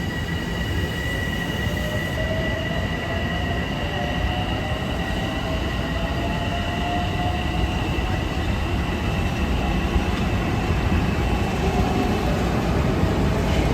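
Long Island Rail Road commuter train running past with a steady rumble and a high whine, while a lower tone slowly rises in pitch.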